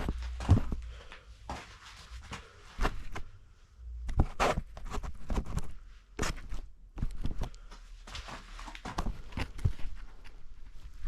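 Boots crunching in snow, with scattered knocks and scrapes at irregular intervals.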